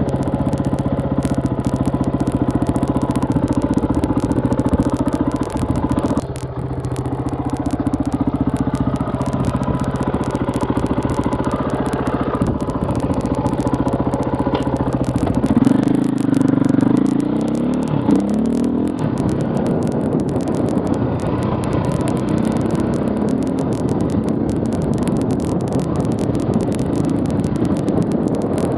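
KTM 450 EXC enduro motorcycle's single-cylinder four-stroke engine running under way at a fairly steady pace. About halfway through, the revs climb sharply, then drop back to a steady run.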